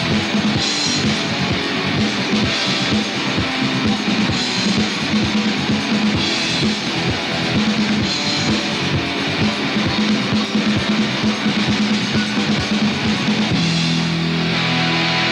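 Instrumental rock music: strummed guitar over a fast drum beat, with no singing. About thirteen and a half seconds in, the beat drops away and a held chord rings on.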